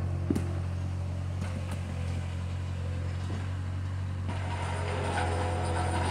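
Bobcat's engine running with a steady low drone, with a sharp knock shortly after the start. About four seconds in, a louder clattering joins as the machine works.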